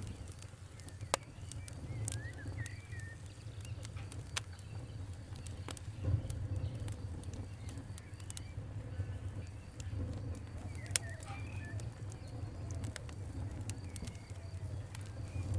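Wood fire crackling, with irregular sharp pops over a low steady rumble. Faint bird chirps sound now and then.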